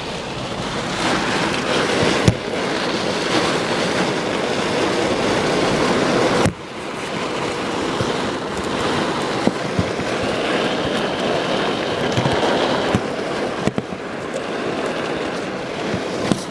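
Heavy wind-driven rain from a severe thunderstorm pounding on a vehicle, a steady loud rush that dips sharply for a moment about six seconds in and then builds again, with a few sharp taps.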